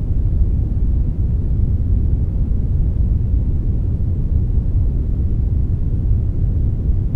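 Steady brown noise, a deep, even rumbling hiss with most of its energy in the low end and only a thin layer of higher hiss, unchanging throughout.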